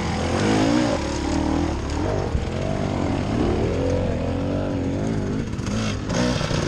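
Enduro dirt bike engine revving up and down, its pitch rising and falling over and over.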